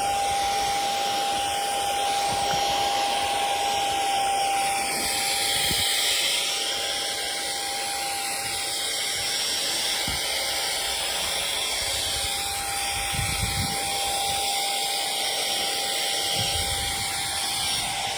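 WHATOOK 2-in-1 air duster and vacuum running on its strongest mode: a steady rush of air from the high-speed fan motor with a constant high whine over it.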